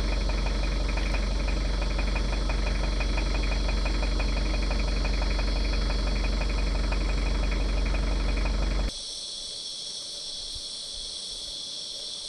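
Vehicle engine idling under a steady high shrill of insects. About nine seconds in, the engine sound cuts off suddenly, leaving only the insects' quieter steady shrill.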